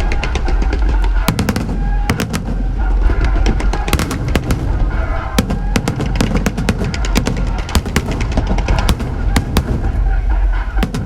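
Fireworks going off in a dense, irregular run of sharp bangs and crackles, several a second, with music playing underneath.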